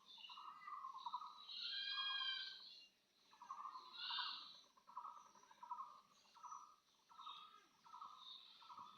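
Birds calling over and over: a short, rapid pulsed call repeated about once a second, with a clearer, higher call about two seconds in and another about four seconds in.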